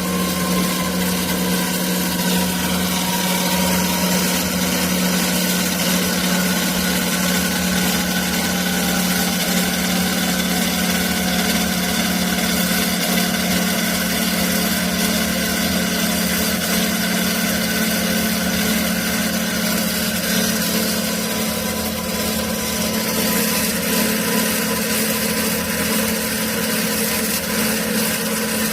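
CY275A metal-cutting band saw running on a test run: a steady machine hum with a strong low drone and several fainter steady higher tones over a hiss.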